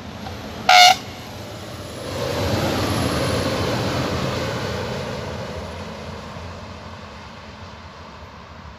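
A red regional multiple-unit train gives a short horn toot about a second in, then passes close by with a rising rumble that peaks and fades as it runs off into the distance.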